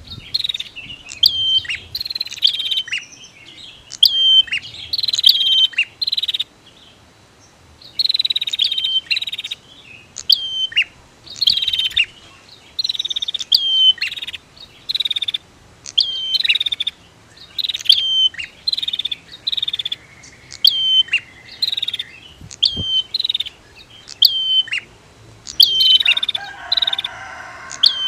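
Prinias (prenjak) calling: a long run of sharp, high chirps, about one to two a second with a few short pauses, and a short buzzy rattle near the end.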